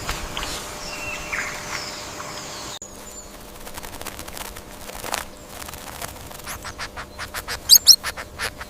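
Bird chirps over scattered scratching and clicking, with a burst of loud, high chirps near the end; the background changes abruptly about three seconds in.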